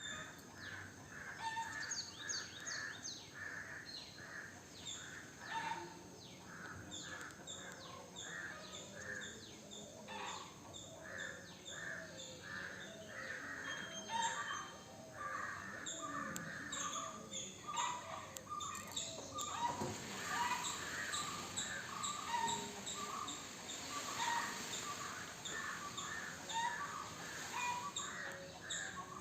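Small birds chirping in a busy chorus: many short, quick notes repeating over and over, with a brief rustling noise about two-thirds of the way through.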